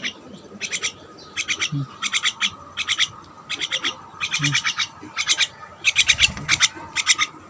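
Pet birds chattering in quick bursts of sharp, rapid chirps, a burst about every half second.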